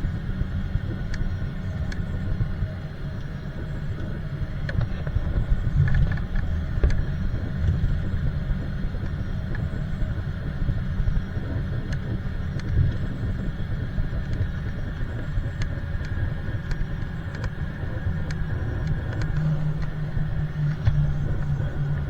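Cabin noise of a jet airliner on a take-off flight: a steady low rumble with light scattered clicks and rattles, and a low hum that comes up strongly near the end.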